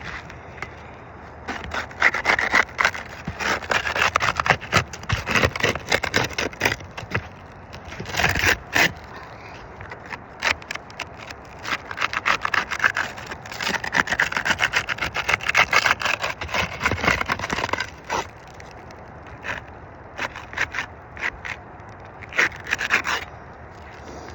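Putty knife scraping under asphalt shingles to break their seal strips, unsealing the rows above a damaged shingle. It comes in several spells of quick, rasping strokes with short pauses between them.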